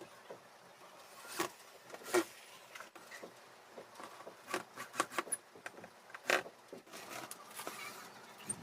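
Irregular clicks, taps and short scrapes of hands working with tools and materials, over a faint steady hum.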